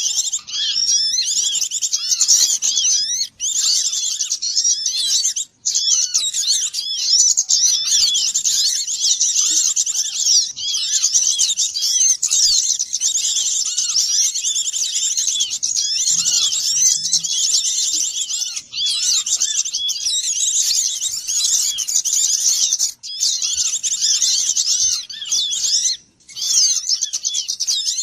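Bird-lure recording of a dense chorus of many small songbirds chirping and twittering over one another without pause. A few times it cuts out for an instant, as at the joins of an edited loop.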